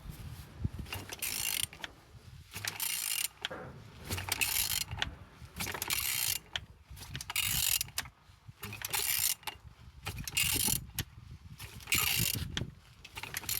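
BMW M54 B25 2.5-litre inline-six engine being turned over by hand with a ratchet wrench, in repeated strokes about every second and a half with rasping ratchet clicks between them. The engine turns freely and is not seized.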